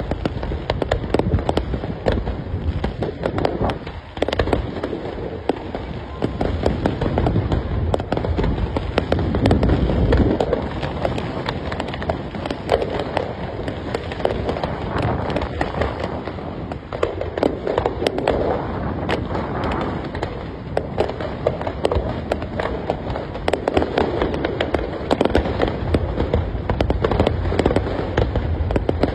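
Fireworks display: a dense, continuous barrage of bangs and crackling, with deeper booms swelling and fading every few seconds.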